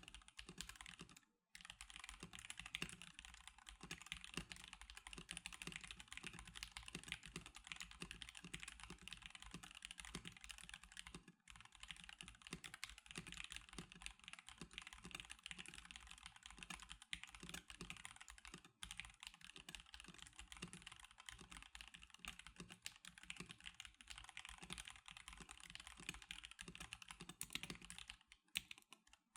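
Stock NovelKeys NK87 Darkshake Edition mechanical keyboard being typed on quickly and continuously, a dense run of keystroke clacks broken by a few brief pauses.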